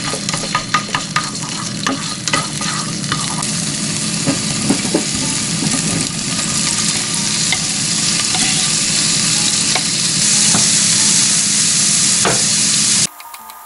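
Minced garlic sizzling in oil in a frying pan, stirred with a wooden spatula with light scraping ticks. Sliced sausages are tipped into the pan about halfway through and the sizzling grows louder, then it cuts off abruptly near the end.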